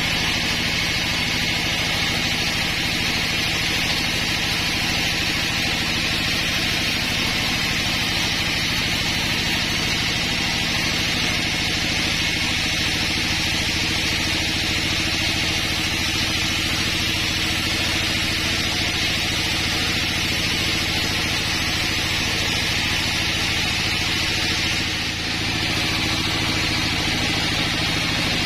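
Sawmill machinery running steadily, with a continuous engine drone, dipping briefly about 25 seconds in.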